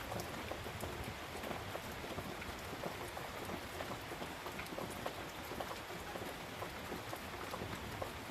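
Steady rain falling, an even hiss scattered with many small drop hits.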